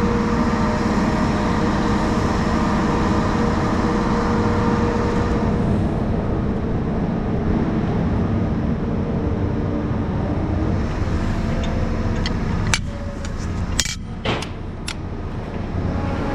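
Heavy crane's diesel engine running steadily with a low, even drone. Near the end it drops a little in level, and a few sharp clicks or knocks are heard.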